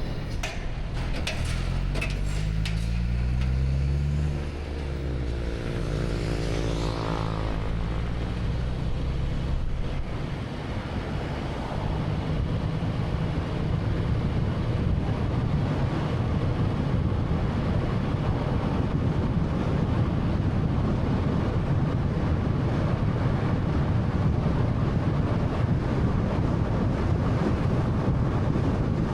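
2013 Honda Fit's 1.3-litre engine pulling up through the revs as the car accelerates over the first several seconds, with a few sharp clicks near the start; then steady tyre and road noise with a low drone while cruising.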